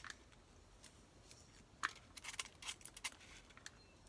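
Faint scratchy clicks and scrapes of a foam block being cut into grooves, with a sharper snap just under two seconds in and a quick run of them after it.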